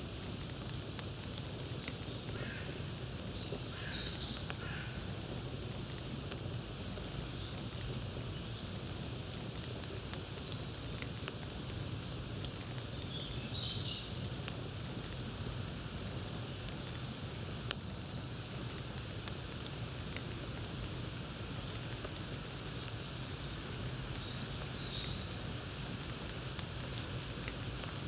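Campfire crackling: a steady hiss with many sharp pops scattered through it, one louder than the rest around the middle. Short bird calls come three times: a few seconds in, just past the middle, and near the end.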